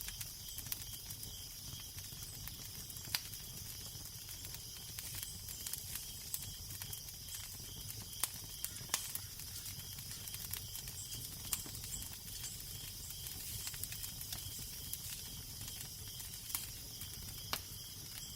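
Fire crackling with a steady hiss and occasional sharp pops, over a low rumble of wind.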